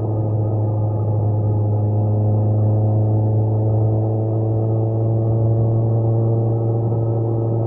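Kawasaki Z900's inline-four engine running at steady revs, a constant low hum with little change in pitch.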